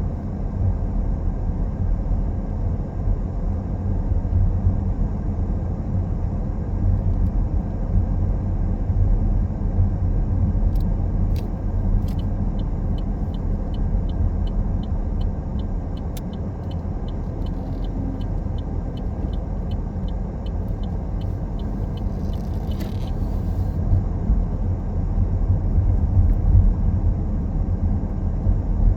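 Car driving on the road: a steady low rumble of tyres and engine. Partway through, an even clicking about twice a second runs for roughly ten seconds, a rhythm like a turn-signal indicator.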